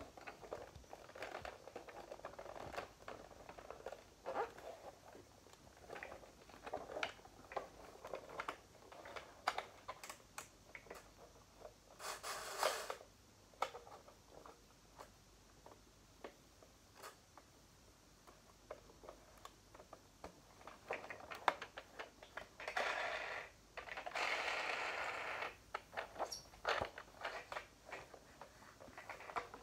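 Hands handling a plastic toy helicopter and its packaging: scattered small clicks and scrapes, with three short bursts of rustling, about 12 seconds in and twice near 23 to 25 seconds.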